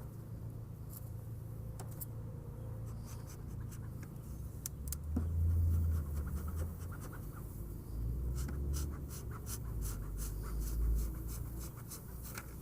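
Metal hive tool scraping and prying at wooden hive parts glued together with propolis: a run of small scratches and clicks, busier in the second half.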